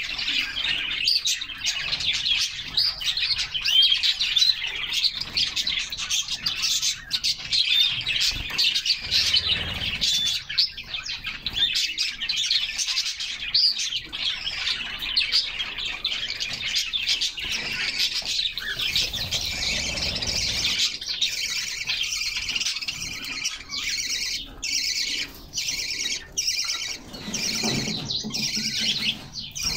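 Canaries singing: a dense, unbroken stream of rapid high chirps and trills.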